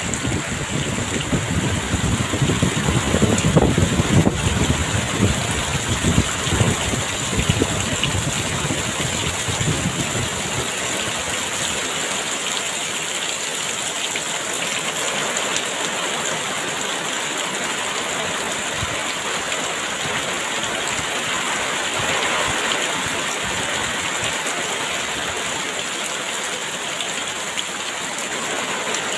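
Very heavy rain falling steadily, a dense even hiss, with strong wind adding a louder, gusting low rumble during the first ten seconds or so.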